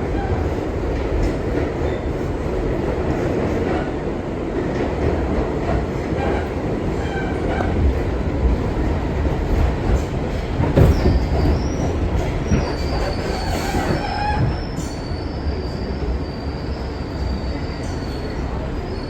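R62 subway car running along the track with a steady rumble of wheels on rail. There is a loud knock about eleven seconds in, then a thin, high wheel squeal that holds through the rest.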